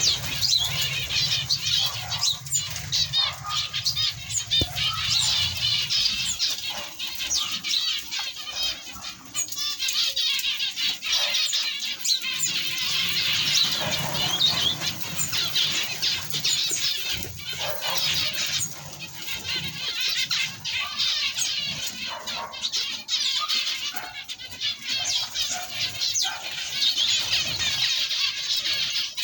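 A large group of small ornamental cage birds chirping and chattering at once, their many high calls overlapping without a break.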